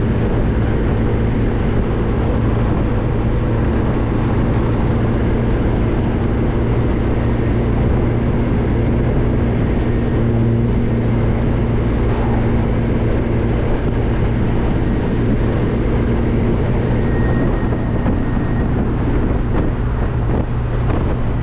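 Classic car driving at a steady cruising speed: an even engine drone with road and wind noise, unchanging throughout.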